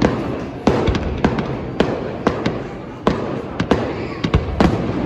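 Fireworks display: a rapid, irregular string of sharp bangs, about two or three a second, with continuous crackle and echo between them.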